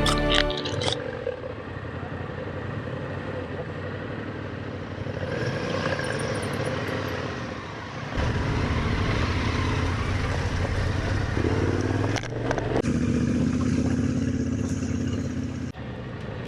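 Yamaha Ténéré 700 parallel-twin motorcycle riding along a gravel road, with engine running under wind and tyre noise. The sound changes abruptly a few times.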